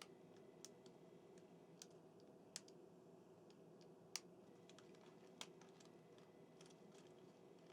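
Near silence with a handful of faint, sharp plastic clicks, the loudest about four seconds in, as the small plastic parts of a KATO N gauge Eurostar model car are fitted and snapped together.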